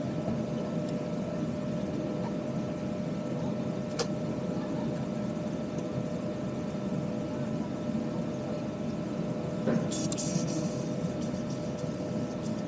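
Steady hum of an Airbus A320's cabin ventilation while parked at the gate, with faint passenger voices underneath. A single sharp click about four seconds in, and a brief rustle near the end.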